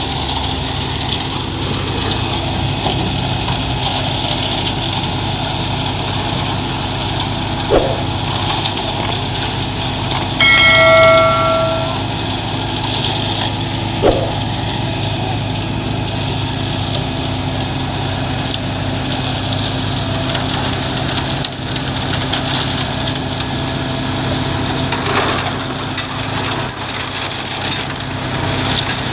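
Concrete mixer truck's diesel engine running steadily. Two sharp knocks sound a few seconds apart, and a single steady pitched tone with several overtones sounds for just over a second between them.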